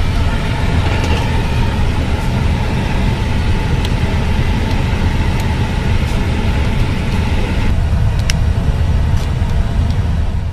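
Loud, steady rumble of an Airbus A350-1000's jet engines and rushing air, heaviest in the low bass, with a faint steady whine.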